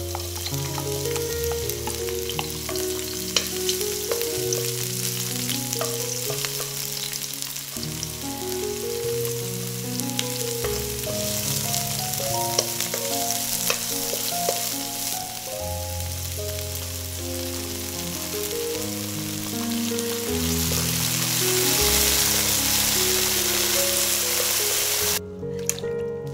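Chopped red chilli, garlic and spring onion sizzling in hot oil in a ceramic-coated wok while a wooden spatula stirs them, with small scattered clicks. The sizzle grows louder about three-quarters of the way through. Soft background music plays underneath.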